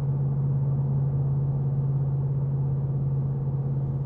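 Ford Mustang GT's 5.0-litre V8 running at steady revs with its active valve exhaust fully open, heard from inside the cabin as a steady low tone.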